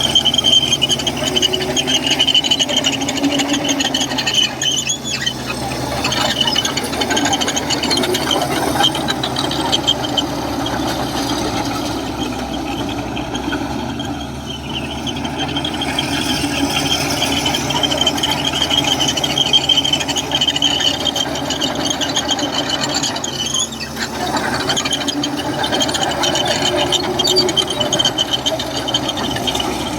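Komatsu crawler bulldozer at work: its diesel engine runs steadily while the steel tracks squeal and rattle, the squeal coming and going.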